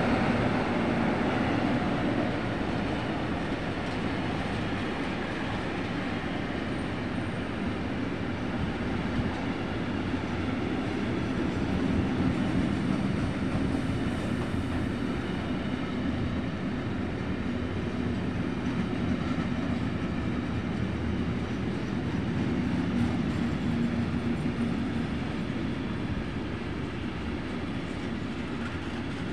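Intermodal freight train of container and tank-container flat wagons rolling past: a steady rumble of steel wheels on the rails. The electric locomotive's whine fades out in the first second.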